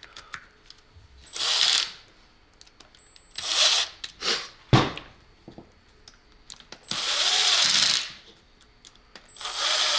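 Cordless power driver run in about five short bursts, driving screws home, with a sharp click about halfway through. The longest burst, near the end, rises and falls in pitch as the motor spins up and slows.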